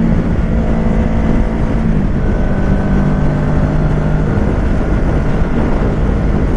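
Kawasaki Ninja 650's parallel-twin engine running through a Shark SRC-4 full aftermarket exhaust at a steady cruise, with wind rush; the engine note drops slightly about two seconds in.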